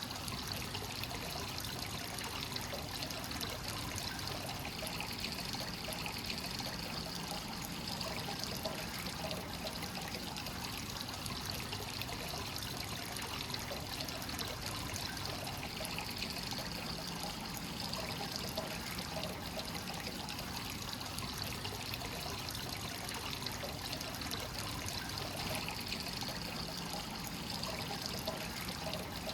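Hot spring water flowing continuously into a bath from a free-flowing source, a steady trickling pour with no pauses.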